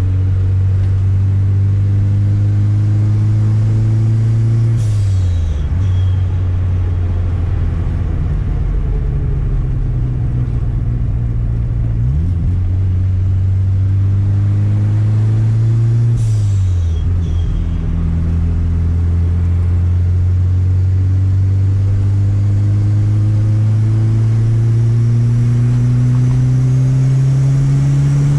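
Turbocharged Chevette's engine pulling through the gears: its pitch climbs slowly and drops at three upshifts. At two of the shifts there is a short turbo hiss as the throttle closes.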